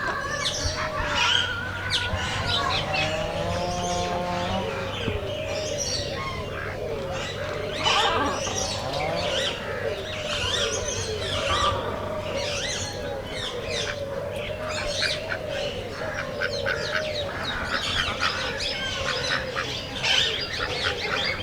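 A chorus of many captive birds calling at once: dense, overlapping high chirps, with a lower call repeated over and over. A steady low hum runs underneath.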